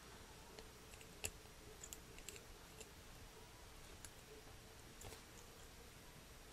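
Near silence with a few faint clicks of plastic model parts being handled, the clearest about a second in.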